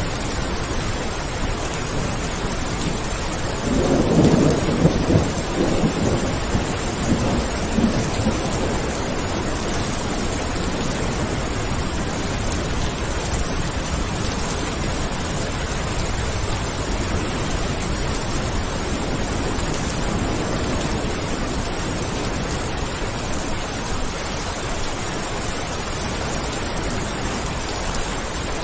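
Steady heavy rain with a roll of thunder rumbling from about four seconds in for some four seconds, and a fainter distant rumble about twenty seconds in.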